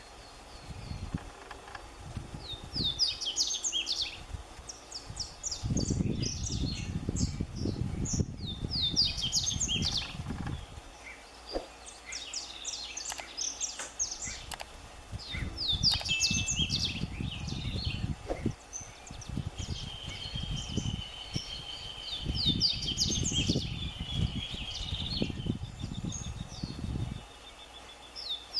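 Double-collared seedeater (coleiro) singing: quick twittering phrases of rapid high chirps, repeated every couple of seconds, over stretches of low rumbling noise. A thin steady trill runs under the song for a few seconds near the end.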